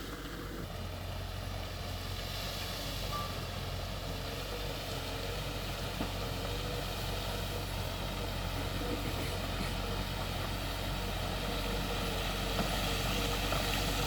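Heavy diesel earthmoving machinery running steadily, a continuous low engine drone that grows slightly louder near the end.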